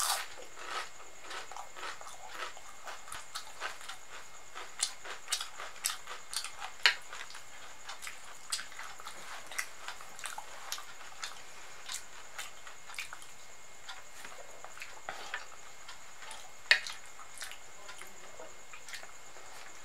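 Close-miked eating sounds: wet chewing and mouth clicks while khichdi is eaten by hand, with scattered sharp clicks and crunches, the loudest about seven seconds in and again near seventeen seconds. A faint steady high hiss sits underneath.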